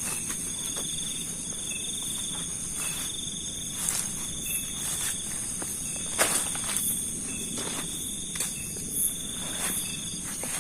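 Night chorus of crickets and other insects trilling steadily, one trill repeating in bursts about a second long, with scattered footsteps of someone walking.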